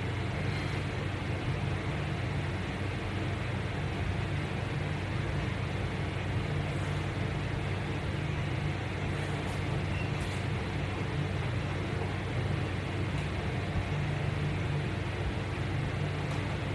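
Steady low hum with an even hiss underneath: unchanging room background noise.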